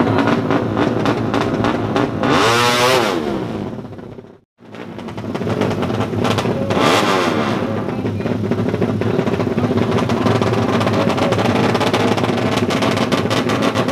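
Tuned underbone drag-bike engine revving loud and buzzy, its pitch sweeping up and down about 3 seconds in and again about 7 seconds in. The sound drops out briefly about four and a half seconds in.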